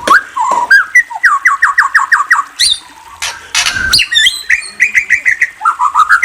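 Murai songbird singing: quick runs of short whistled up-slurred notes, about eight a second, with higher chirps. A short harsh rasping note comes about midway.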